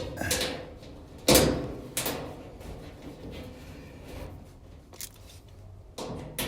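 Clunks and knocks from a dryer's metal cabinet panel being shifted and pushed into place: two sharp knocks about a second apart near the start, the first the loudest, then a faint click later.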